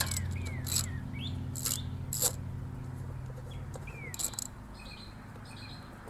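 Birds chirping in short downward-sliding calls over a low steady hum that stops about four seconds in, with a few sharp clicks of hand tools working the mower's cover bolts.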